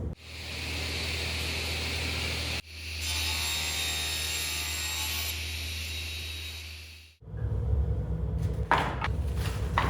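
Power saw cutting white oak, a steady run with a low motor hum and a whine that starts and stops twice; from about seven seconds in it gives way to a rougher, rumbling machine noise with a few knocks.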